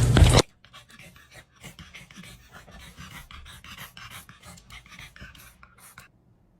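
A dog panting in quick, short breaths, which stop about six seconds in. A loud rumbling sound cuts off about half a second in.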